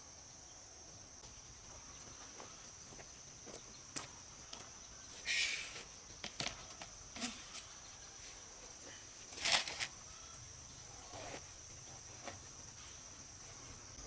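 Steady high-pitched drone of insects, with scattered short knocks and two louder scuffing noises, about five and nine and a half seconds in.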